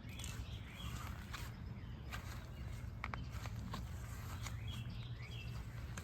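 Footsteps and rustling outdoors, with scattered clicks over a steady low rumble and a few faint bird chirps, once near the start and again about five seconds in.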